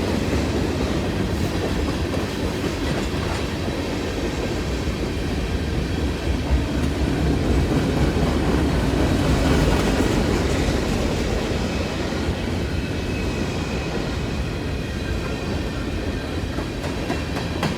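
Freight train cars rolling steadily past, with wheels clicking over the rail joints and a continuous heavy rumble.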